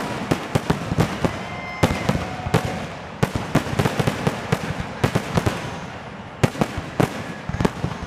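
Aerial firework shells bursting in a rapid, overlapping barrage, the dense finale of a display. The bangs thin out briefly a little before six seconds in, then a fresh volley starts.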